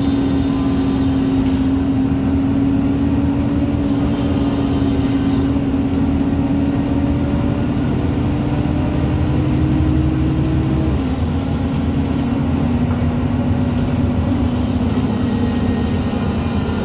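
Differential and gearbox whine of a MAN Lions City G articulated bus under way, a steady high whine over the low rumble of the engine. The whine's pitch creeps up slowly, then drops suddenly about two-thirds of the way through and settles lower.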